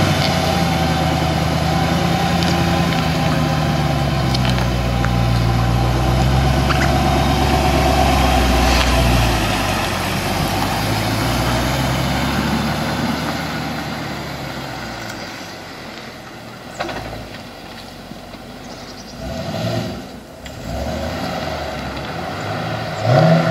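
Chevrolet Camaro SS V8 running at low speed as the car is maneuvered, its pitch slowly rising and falling, then growing quieter about halfway through.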